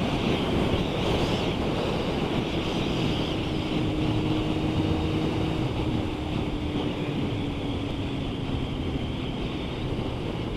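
Wind buffeting a motorcycle rider's microphone at speed, with the motorcycle's engine note steady underneath and easing slightly lower in pitch in the second half.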